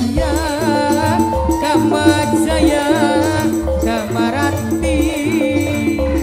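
Live tarling-dangdut band music: a wavering melody with heavy vibrato over a steady low drum beat and shaker-like percussion.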